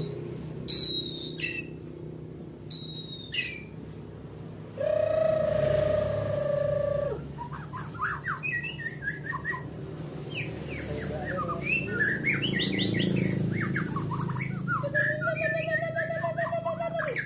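White-rumped shama singing a varied song: short whistled notes, a long held note, then runs of fast chirps sweeping up and down, and a wavering held note near the end. The bird is being urged to pour out its full repertoire.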